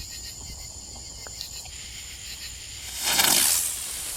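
Crickets trilling steadily in the night, then about three seconds in a small firework goes off with a loud hiss lasting under a second.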